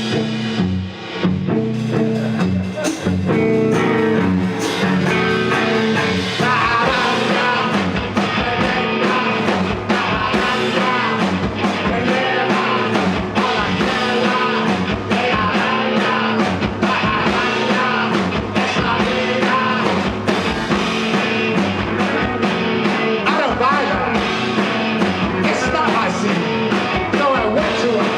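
Live rock band playing loud with electric guitar and a steady drum beat, with some singing.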